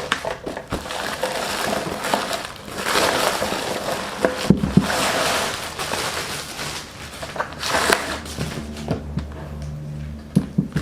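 Packaging of a boxed air pump being opened and handled: long stretches of cardboard and wrapping rustling, with scattered knocks. A low steady hum comes in near the end.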